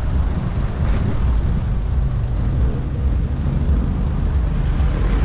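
Steady low wind rumble on the camera microphone, mixed with road noise, while riding an electric scooter at speed.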